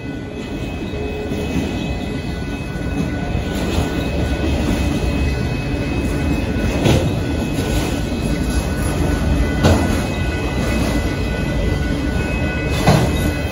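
Autorack cars of a Norfolk Southern freight train rolling past: a steady rumble of wheels on rail, with a few sharp clanks and steady high-pitched tones over it.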